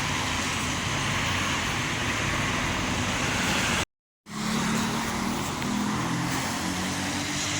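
Steady car noise: a low engine hum under a wide rushing road noise. It cuts out completely for a moment about four seconds in, then resumes with the hum slightly changed.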